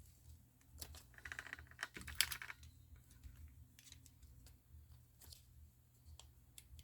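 Light clicks and a brief crinkling rattle of plastic film from the screen adhesive tape being handled and peeled, between about one and two and a half seconds in.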